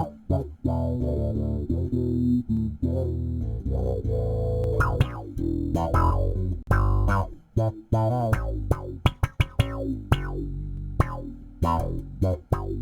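Electric bass played slap-style through a Mutron-style envelope filter pedal, each note opening with a quacking filter sweep that falls away as it decays. A quick run of popped notes comes in the second half.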